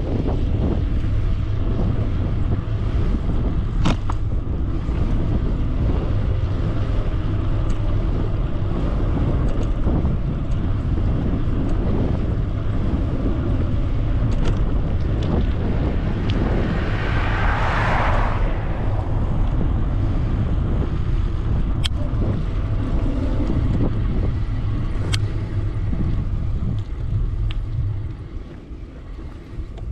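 Steady wind rush on the microphone and tyre noise from an e-bike riding along a paved road. A louder hiss swells and fades about two-thirds of the way through, and the noise eases off near the end.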